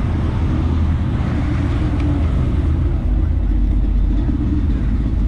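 A vehicle engine idling steadily close by.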